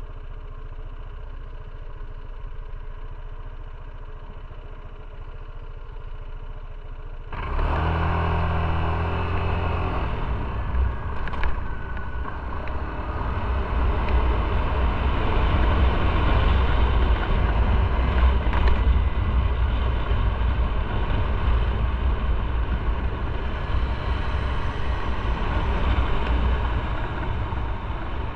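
Motorcycle engine idling steadily, then about seven seconds in it pulls away and keeps running under way, engine and wind noise much louder.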